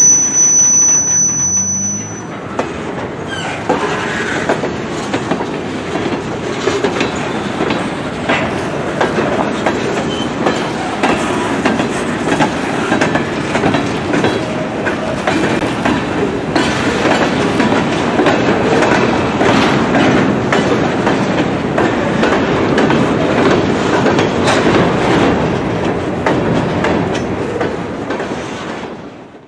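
A train rolling past on the track: a steady rumble with many rapid clicks of wheels over the rails, which cuts off sharply near the end.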